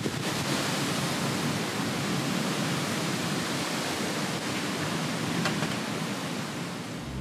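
Steady hiss of heavy rain falling during a thunderstorm, dipping slightly near the end.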